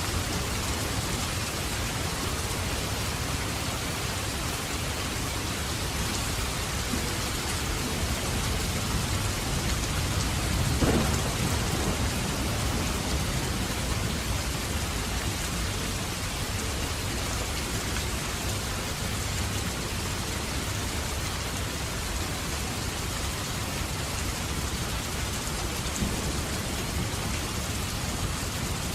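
Steady heavy rain with a rumble of thunder swelling up about ten seconds in and dying away.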